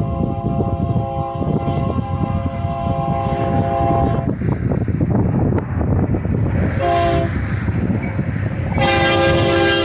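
A freight locomotive's multi-chime air horn sounds a long blast, then a short blast about seven seconds in, then another long blast starting near the end. The pattern fits the long-long-short-long grade-crossing signal. Steady rumble of the passing train and wind underneath.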